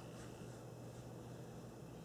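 Quiet room tone: a steady low hum under a faint even hiss, with a couple of faint soft rustles.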